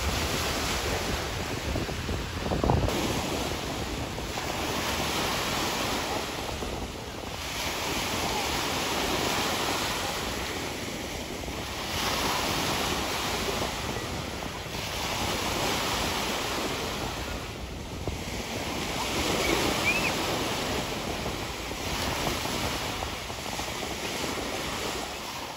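Small waves washing onto a Lake Huron beach, the wash swelling and falling every few seconds, with wind buffeting the microphone.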